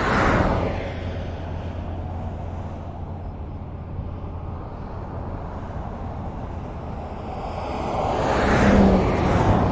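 Highway traffic: one vehicle passes close just at the start and fades, steady traffic rumble runs between, and a second vehicle swells to a louder pass-by near the end.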